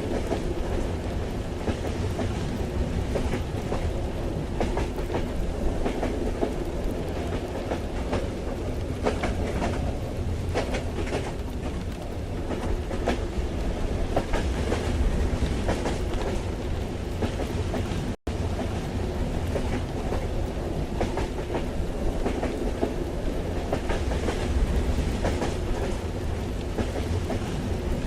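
Ambience from inside a moving train: a steady low rumble of the carriage on the rails with scattered light ticks, mixed with rain. The sound cuts out for a split second a little past the middle.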